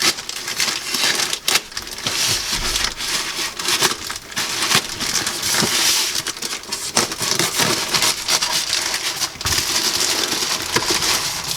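Polythene and bubble wrap crinkling and rustling as they are handled and pulled off a boxed parcel, with scattered sharp crackles.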